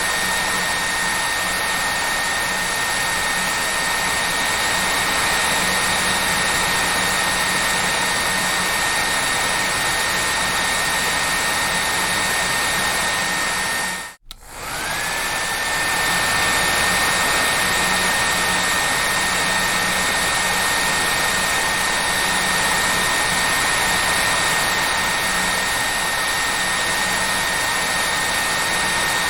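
Hair dryer blowing steadily, with a high motor whine over the rush of air. About halfway through it cuts out for a moment and comes back, the whine climbing back up to pitch as the motor spins up.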